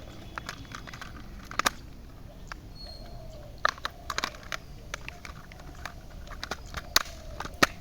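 Plastic parts of a toy airliner clicking and knocking as they are handled and snapped together, a scatter of sharp irregular clicks with a few louder ones.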